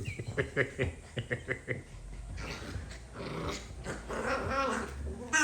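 Maltipoo puppies play-fighting: a quick run of short high yips, then a longer stretch of rough play growling.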